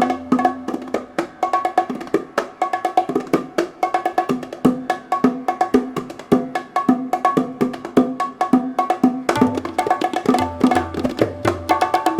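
Hand percussion duet of bongos, cajon, tabla and kanjira playing a fast, dense rhythm of sharp, ringing pitched drum strokes. A deep bass drum tone drops out near the start and comes back about nine seconds in.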